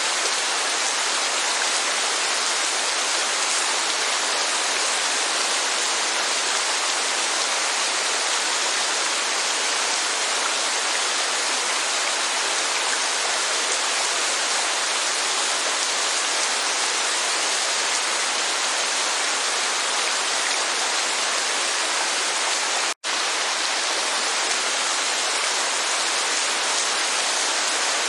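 Steady rushing of rain and falling water, an even hiss. The sound cuts out completely for an instant about three quarters of the way through, then carries on unchanged.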